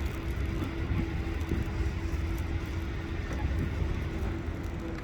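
Steady low rumble of city background noise, with a faint constant hum running through it.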